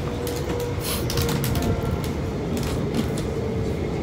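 Electric commuter train running: a steady rumble with a faint steady whine and scattered clicks and rattles.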